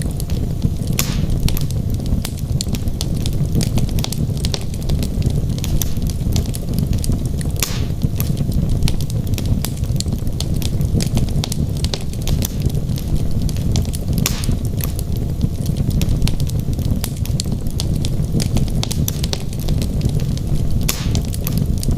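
Wood fire burning in a fireplace: a steady low rumble of the flames with frequent sharp crackles and pops from the logs, a few louder pops standing out.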